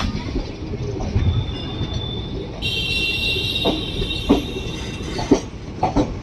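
Maurya Express passenger train rolling along the track: a steady low rumble with irregular clanks as the wheels cross rail joints, and a high-pitched metal wheel squeal from about three seconds in until just past five seconds.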